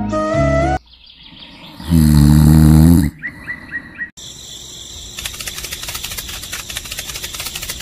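Cartoon sound effects: a flute tune ends, then about two seconds in a loud snore lasts about a second. Four quick bird chirps follow. From about four seconds in comes a fast, steady run of ticks and clicks.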